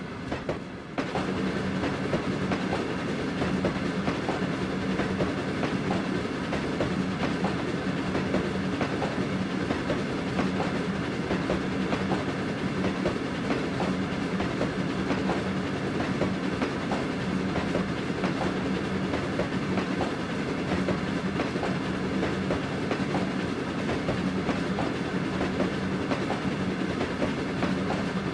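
Train running steadily along the track: a continuous rumble with a steady low hum and the clickety-clack of wheels over the rail joints.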